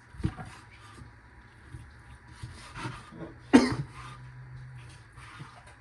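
A single short, sharp cough-like burst about three and a half seconds in, with a few fainter rubbing and knocking sounds around it.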